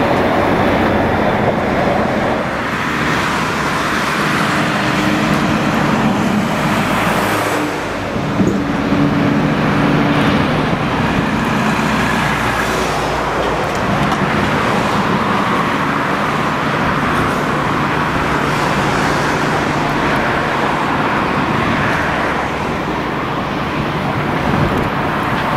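Freight train running past: a steady rolling noise with a low, even engine hum underneath.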